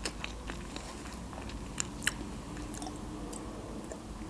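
A person chewing food with soft, irregular mouth clicks and smacks.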